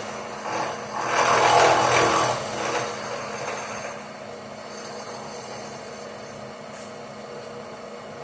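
Power tool cutting across a fresh gas weld on a cast-iron exhaust manifold, one loud pass about a second in that dies away by about three seconds; the tool cuts the weld metal, so the weld is soft enough to machine. A faint steady noise follows.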